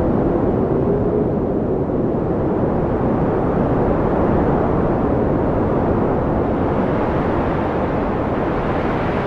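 Blizzard wind blowing strongly and steadily as a deep, unbroken rush, with a faint whistle that sinks slightly in pitch and fades out in the first couple of seconds.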